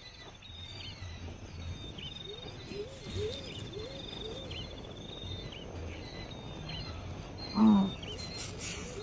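Birds calling in the wild: many short, repeated high chirps over a series of lower arched calls. Near the end, one loud, short, low animal cry stands out above them.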